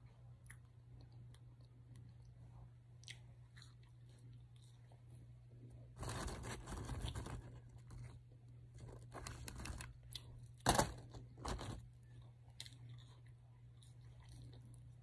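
A person chewing and crunching food close to the microphone, faint clicks at first, then louder wet, crunchy chewing from about six seconds in, with one sharp crunch a little past the middle.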